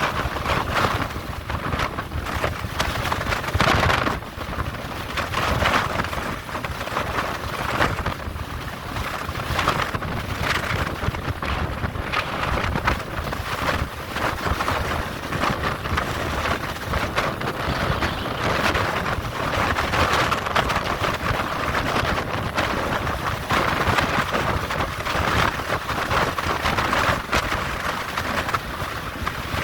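Steady rush of strong wind and moving-vehicle noise, rising and falling in gusts, with wind buffeting the microphone.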